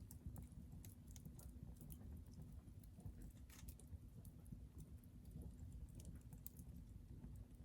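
Hardwood fire burning in a titanium fire grill, crackling faintly with scattered, irregular small pops.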